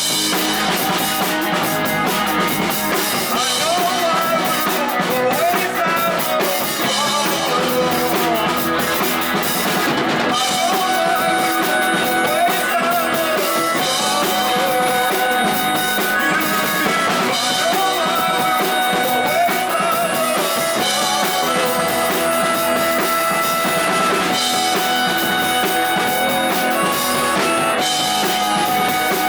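A rock band playing a song live, with electric guitars, drum kit and some singing.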